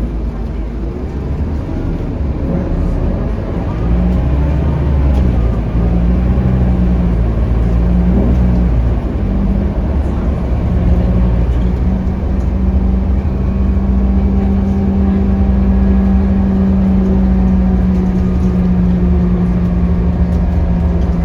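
Scania K310UB city bus's five-cylinder diesel engine heard from inside the bus, pulling away with its pitch stepping through gear changes, then running at a steady pitch as the bus cruises.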